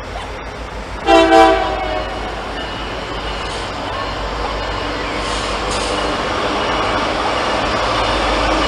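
Locomotive air horn gives one short blast about a second in, then the rumble of the train grows steadily louder as it approaches.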